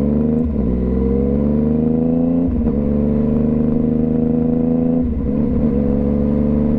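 2015 Yamaha FZ-09's 847 cc inline three-cylinder engine pulling under way, its note climbing steadily in pitch. The note breaks off briefly three times, about half a second in, at about two and a half seconds and at about five seconds, as gears are changed.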